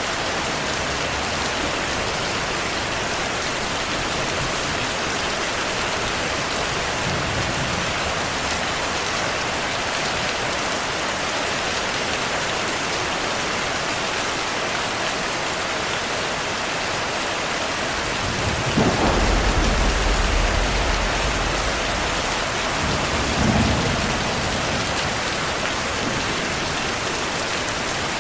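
Steady heavy rain, with a clap of thunder about two-thirds of the way in that rumbles on for a few seconds, then a second, shorter roll of thunder.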